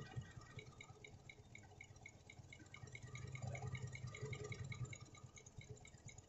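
Toyota 1TR four-cylinder petrol engine idling faintly and unevenly, with a steady light ticking at about five ticks a second. It is running rough and close to stalling from a misfiring cylinder.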